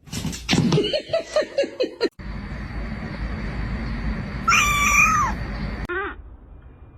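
Domestic cat meowing: one drawn-out meow about four and a half seconds in that drops in pitch at its end, over a steady background hiss. Before it comes a quick flurry of short squeaky calls and clicks.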